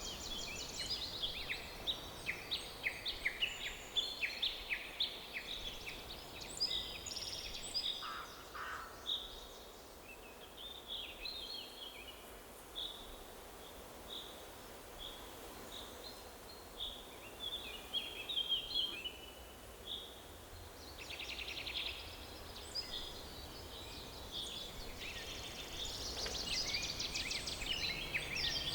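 Several songbirds singing and chirping in a forest over a soft steady background hiss. The song is busy at first, thins out to scattered whistled notes in the middle, and grows into a dense chorus again near the end.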